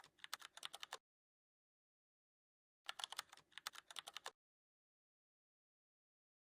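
Computer keyboard typing in two short bursts of quick key clicks, the first about a second long and the second about a second and a half, with complete silence between them.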